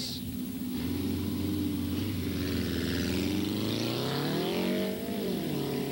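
Race car engine running steadily, then revved up about four seconds in and let fall back.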